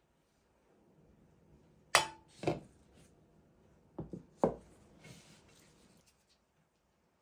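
Dishes and glassware being handled and set down: five sharp knocks and clinks in two groups, the first ringing briefly, followed by a short rustling hiss.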